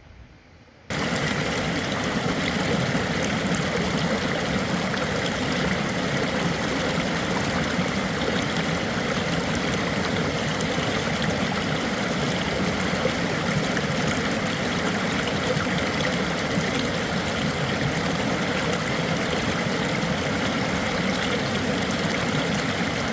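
Rushing stream water, a loud steady rush that starts suddenly about a second in.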